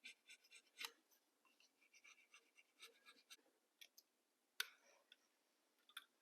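Near silence with faint, scattered clicks and light scraping, with sharper clicks about a second in and again about four and a half seconds in.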